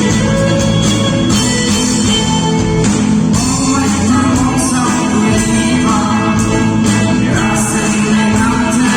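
Gospel music played by a band with guitar, with singing voices over it; loud and continuous.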